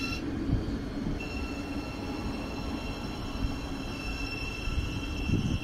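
Thameslink electric multiple unit running along the platform: a steady rumble of wheels on rail with a high, steady whine that drops out for about a second near the start and then returns.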